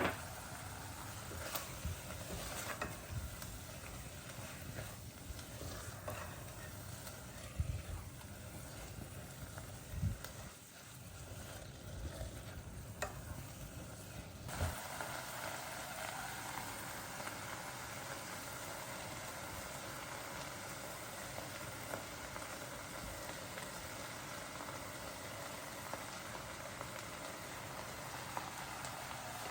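Food sizzling in a pan, with knocks and stirring from a utensil in the first half. About halfway through the sizzle turns steady and fuller.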